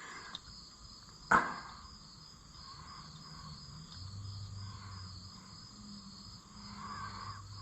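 Crickets chirping steadily in the background, with a single sharp knock about a second and a half in.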